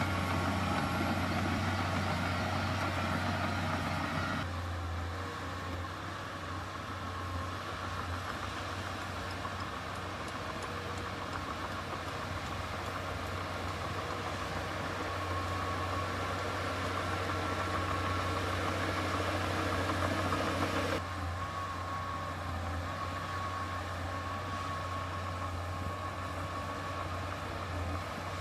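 Heavy earthmoving machinery's diesel engine running steadily, with a deep hum and a faint high whine. The sound changes abruptly twice, about four seconds in and about three-quarters of the way through.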